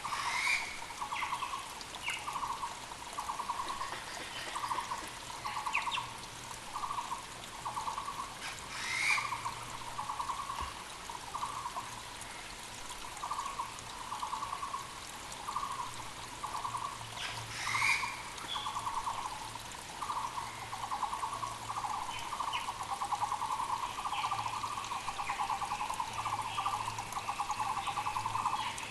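Muller's barbets (Taiwan barbets) calling: short phrases of rapid, evenly pulsed notes repeated over and over, running together into a near-continuous chorus in the last few seconds. Another bird gives a sharp rising call three times, over the steady rush of a mountain creek.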